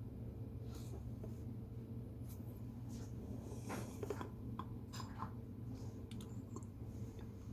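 Drawing on paper: a run of short, scratchy strokes, busiest about halfway through, over a steady low room hum.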